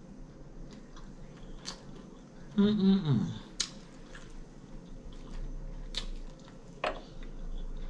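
Close-miked chewing of air-fried chicken, with scattered sharp wet mouth clicks and smacks. A short hum of the voice comes about two and a half seconds in.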